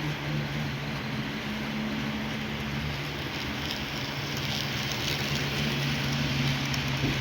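HO-scale model train, a C36 diesel locomotive model pulling a maintenance-of-way train, running on the layout track: a steady electric motor hum with wheel and track rattle that grows louder about halfway through.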